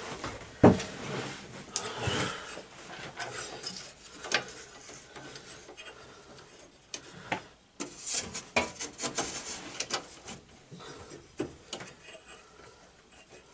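Hand work on a lawn tractor: irregular metal clicks, knocks and scraping as parts and tools are handled, with a sharp knock just under a second in.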